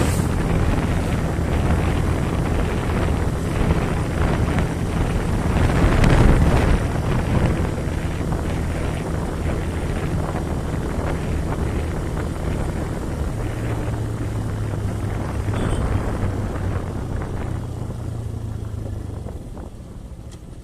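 A small engine running with wind noise on the microphone. Its note settles lower about 13 s in, and the sound dies down near the end.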